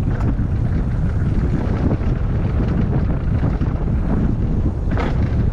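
Wind buffeting the microphone during a ride, a loud steady rumble, with a brief crackle near the end.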